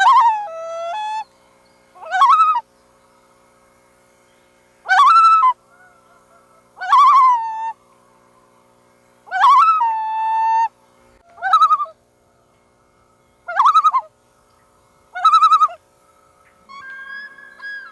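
Loons calling, a string of about eight short quavering calls roughly every two seconds. Several calls drop in pitch and then hold a steady note, and a softer held note comes near the end.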